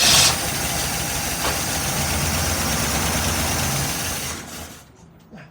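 1979 Chevy Nova engine running steadily for about four seconds just after starting, then fading and dying out near the end. It stalls because the mechanical fuel pump isn't working.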